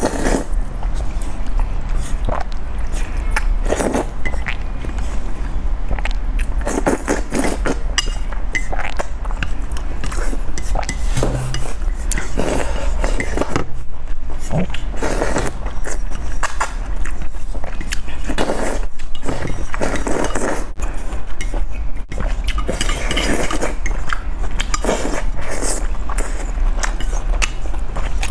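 Close-miked noodle eating: slurping and chewing in short, irregular bursts, with cutlery clinking and scraping against a bowl, over a steady low hum.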